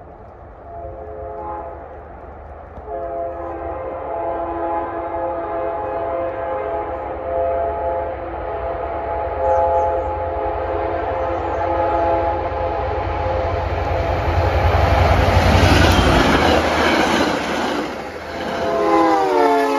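Passenger train approaching and passing at speed, its locomotive's multi-chime air horn sounding in a series of long blasts. Engine rumble and wheel noise build to a peak as the train goes by, and a final horn blast near the end sags in pitch.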